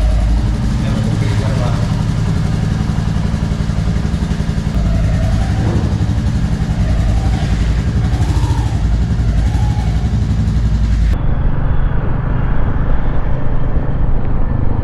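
Royal Enfield Meteor 350's single-cylinder engine running while the motorcycle is ridden on the road, a steady pulsing engine note with road and wind noise.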